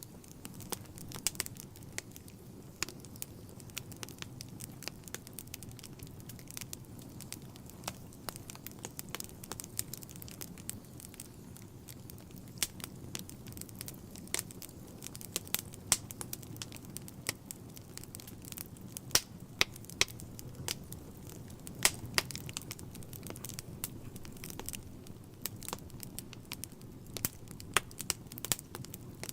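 Wood fire burning in a fireplace: a low, steady rush of flames under constant irregular crackles and pops, with a few louder snaps now and then.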